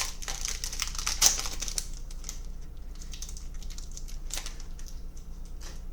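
Foil wrapper of a trading-card pack crinkling and crackling for about two seconds, then scattered light clicks and taps of the cards being handled.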